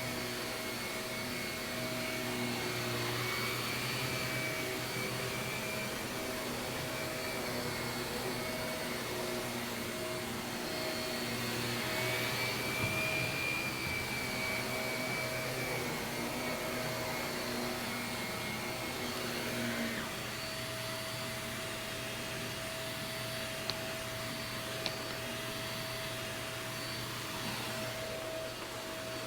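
Shark vacuum cleaner running steadily while vacuuming carpet, a continuous motor whine with steady tones. About 20 seconds in, part of the whine drops away and the sound settles a little lower. There are two small clicks near the end.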